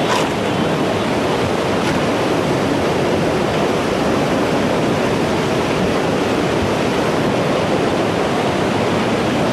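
Steady, even rush of surging seawater from a tsunami flood.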